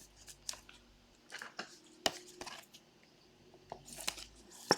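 Trading cards and their packaging being handled: light crinkling and rustling with scattered small clicks and taps, a sharper click about two seconds in and another near the end.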